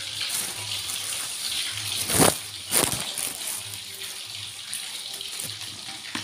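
Chicken pieces frying in hot oil in a wok, a steady sizzle. Two sharp knocks come a little over two seconds in, about half a second apart.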